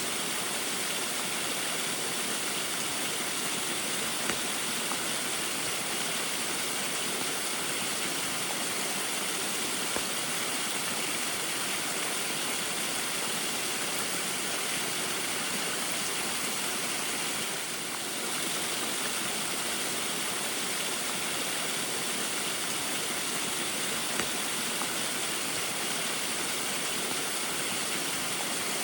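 A small waterfall splashing in an unbroken, steady rush of water, with rain falling.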